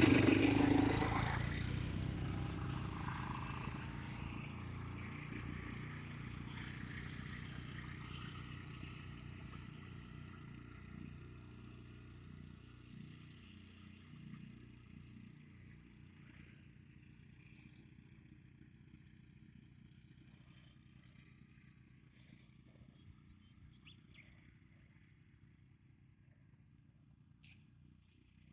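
Four-wheeler (ATV) engines pulling away, loud at first and then fading steadily as they move off.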